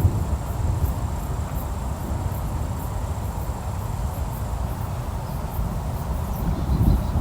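Thunderstorm ambience: a steady rain hiss over a continuous deep low rumble, with faint high ticks repeating throughout.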